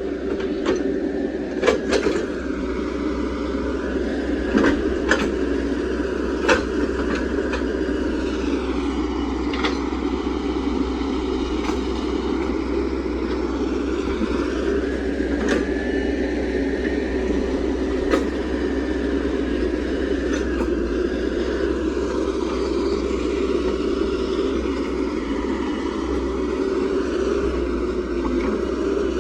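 Hydraulic excavator's diesel engine running steadily, with a whine from the hydraulics rising and falling in pitch as the arm and bucket work. Sharp knocks come now and then, most of them in the first few seconds.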